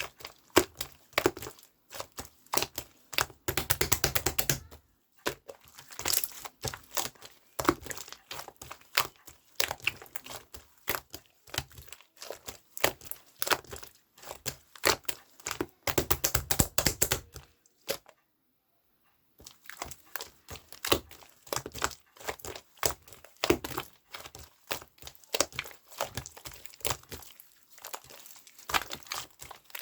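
Dense, irregular crinkling and crackling made of many small clicks, thicker in two spells and broken by a short pause about two-thirds of the way through.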